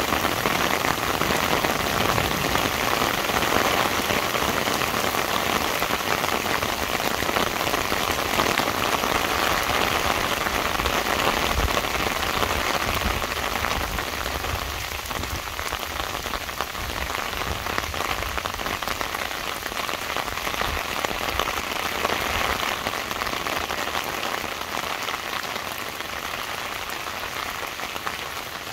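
Heavy rain falling on wet pavement and road, a steady dense hiss that grows a little quieter in the second half.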